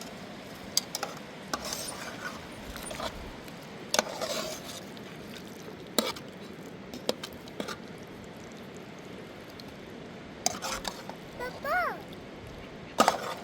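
A cooking utensil knocking and clinking in a pot, about ten separate knocks spread out, over a steady background hiss. A short vocal sound comes near the end.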